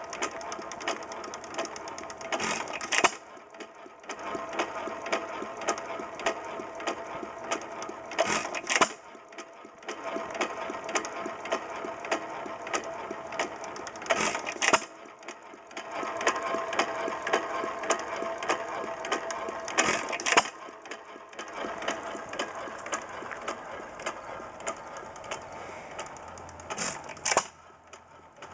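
A Stover 2 hp Type K single-cylinder hit-and-miss gasoline engine running. It fires a quick pair of loud power strokes about every six seconds, five times in all, and coasts between them with a steady fast mechanical clatter.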